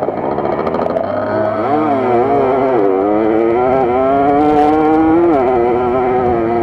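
Small two-stroke motorcycle engine heard from on board, revving up and down as the bike rides a dirt trail: the pitch wavers, dips about three seconds in, climbs steadily, then drops just past five seconds.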